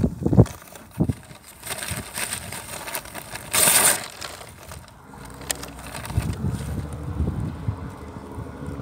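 A snowplow truck passing on the road, its engine rumble building from about six seconds in. Before it come a few close knocks and a short loud crunching hiss.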